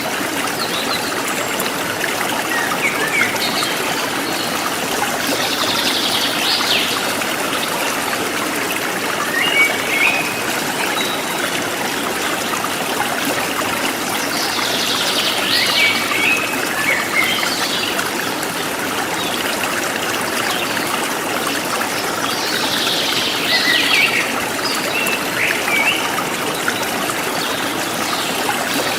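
River water flowing and trickling steadily over stones, with birds chirping briefly every several seconds.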